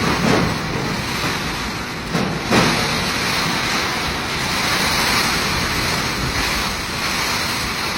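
Storm wind blowing hard and continuously, with strong gusts at the start and about two and a half seconds in.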